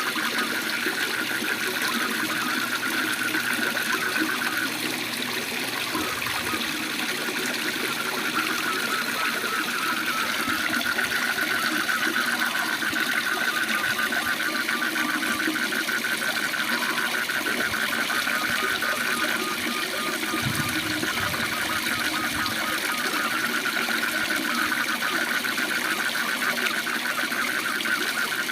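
Waterfall running steadily, with a frog chorus trilling continuously in fast, even pulses above the rush of water.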